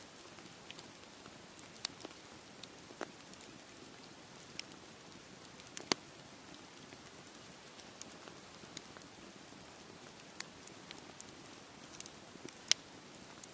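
Campfire crackling, with irregular sharp pops and snaps over a steady hiss; the loudest pops come about six seconds in and near the end.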